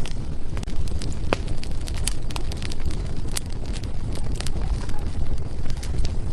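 Wood fire burning: a steady low rumble of flames with frequent, irregular sharp crackles and pops from the burning firewood.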